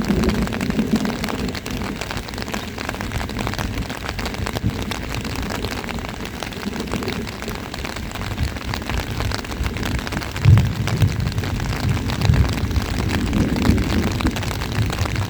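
Steady rain, a dense hiss of drop hits, with deep low rumbles coming and going from about two-thirds of the way in.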